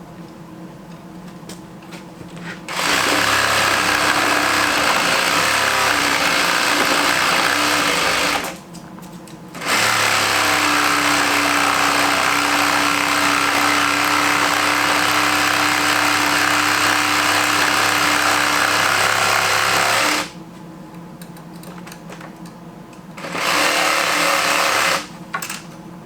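Electric power saw cutting notches into wooden framing lumber. It runs in three spells: from about three to eight seconds in, a long run from about ten to twenty seconds, and briefly near the end.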